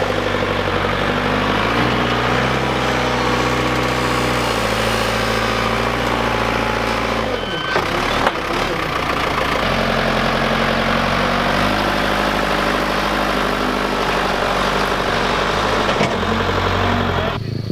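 An engine running steadily near idle, its pitch stepping up and down a few times, with a brief break and a couple of sharp knocks about eight seconds in.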